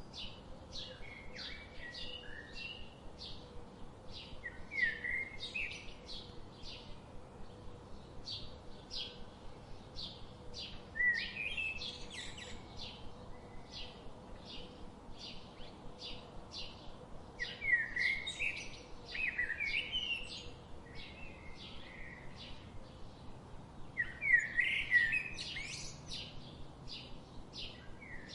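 Tropical forest birds calling: a steady run of short high notes, about two a second, with louder chattering phrases breaking in four times.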